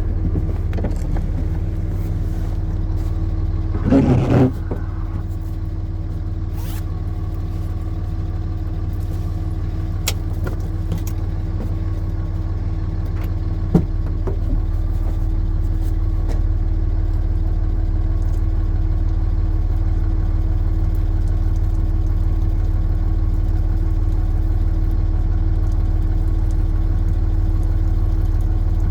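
Vehicle engine idling steadily, heard from inside the cab, with a short noisy burst about four seconds in and a single click near the middle.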